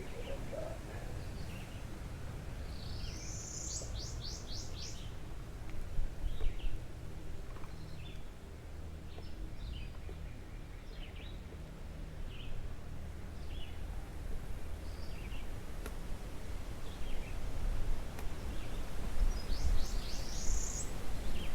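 Outdoor birdsong. A songbird gives a rising sweep and a quick run of repeated high notes twice, about three seconds in and again near the end. Short chirps fall in between, over a steady low background rumble.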